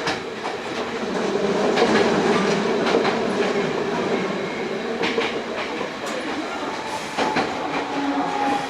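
Hankyu 8000 series electric train running, heard from inside the car: steady whining tones from the Toshiba GTO-VVVF inverter and traction motors over rolling wheel noise, with clicks of the wheels over rail joints. The tone fades about five seconds in, and a new pair of tones comes in about seven seconds in.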